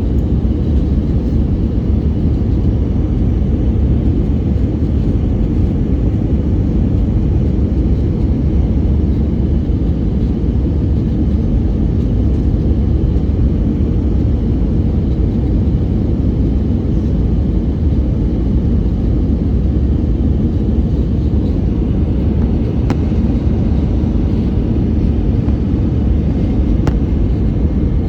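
Steady low rumble of an Airbus A320 cabin in flight on descent: engine and airflow noise from its IAE engines, unchanging throughout, with a couple of faint clicks near the end.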